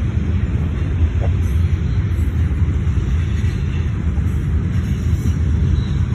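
Freight train cars rolling past on the rails: a steady deep rumble with no breaks.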